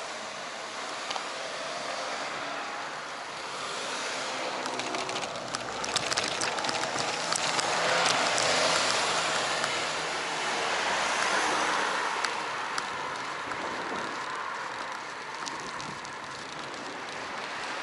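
Wind rushing over an action camera's microphone, with tyre and road noise from a bicycle ride, swelling and fading several times and with a few scattered clicks about six seconds in.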